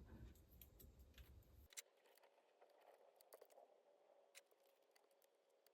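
Near silence: room tone with a few faint, light clicks scattered through it, and a low hum that cuts off abruptly after a second or two.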